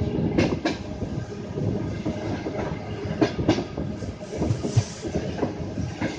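Rolling rumble of a moving train heard from aboard, with the wheels clicking over rail joints in quick pairs, twice.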